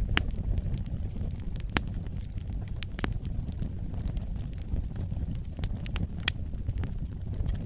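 Wood campfire burning: a steady low rumble with scattered sharp crackles and pops, several of them loud.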